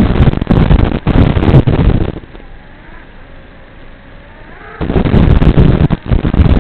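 Wind buffeting the microphone in two long, loud gusts, with a quieter gap about two seconds in where a faint whine glides up and down in pitch.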